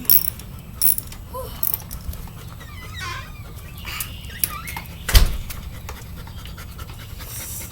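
A dog panting, with scattered tool clicks and one loud knock about five seconds in.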